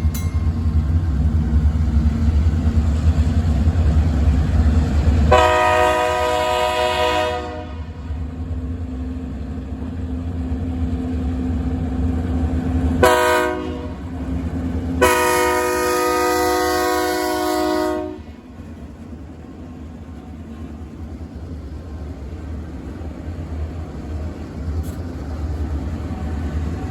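South Carolina Central freight train's diesel locomotive rumbling up to a grade crossing, then sounding its air horn three times: a long blast about five seconds in, a short one near thirteen seconds and a longer one ending about eighteen seconds in. A quieter, steady rumble of the train follows.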